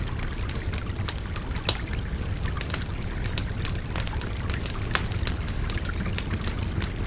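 Wood fire crackling, with irregular sharp pops, one louder pop about two seconds in, over the steady rush of a babbling river.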